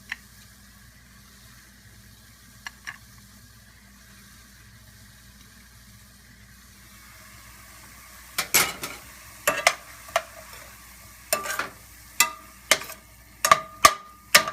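Ground chicken sizzling faintly in a skillet. From about eight seconds in, a cooking utensil stirs and knocks against the pan, about a dozen sharp clanks, some of them ringing.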